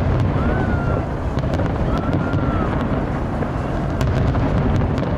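Fireworks display: a continuous low rumble of bursting shells with many sharp crackles and pops, and a couple of short whistles, over the noise of a large crowd.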